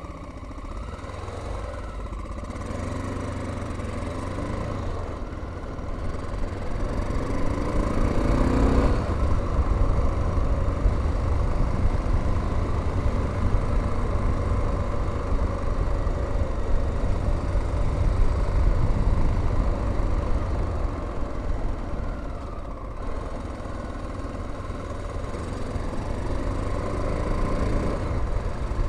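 1987 Honda XL600R's 589cc single-cylinder engine running under a rider in traffic. It starts slow, then accelerates with rising pitch about eight seconds in and holds a steady cruise, easing off a little after twenty seconds before picking up again near the end.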